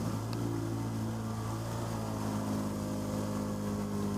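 ATV engine running at steady revs with an even, unchanging pitch.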